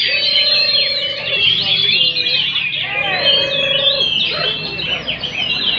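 Many songbirds singing at once, a dense chorus of overlapping chirps and trills. A lower wavering note is held twice, each time for about a second.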